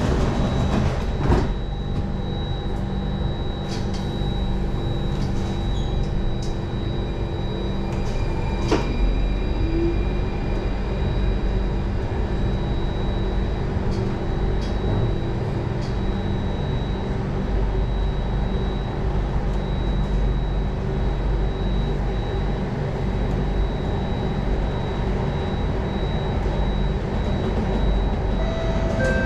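Singapore MRT Circle Line train heard from inside the car: the sliding doors shut with a knock about a second in, then the train pulls away and runs through the tunnel with a steady rumble and a constant high whine. About nine seconds in there is a click and a brief rising whine.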